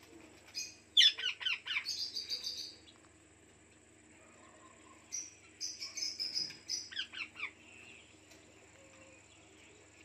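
A bird chirping in two runs of quick, high notes, the first about a second in and the second about five seconds in, each lasting two to three seconds.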